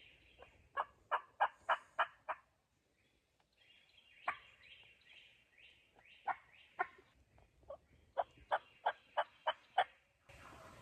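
Turkey yelping: two runs of about six evenly spaced yelps, roughly three a second, with single yelps between them, while a small bird repeats a quick falling chirp.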